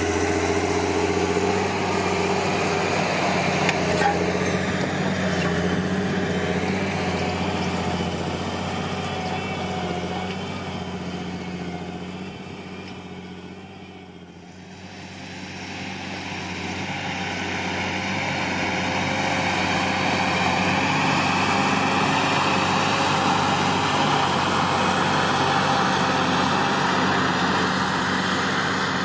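John Deere 8520T tracked tractor's 8.1-litre PowerTech six-cylinder diesel running under load as it pulls a four-furrow plough. The engine fades to its quietest about halfway through, then grows loud again.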